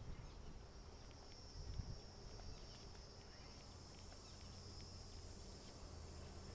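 Insect droning steadily in the trees, a continuous high buzz at two high pitches, of the kind the walker takes for a cicada though she isn't sure.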